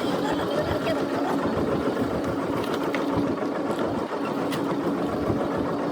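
Fishing boat's engine running steadily, with a constant low hum.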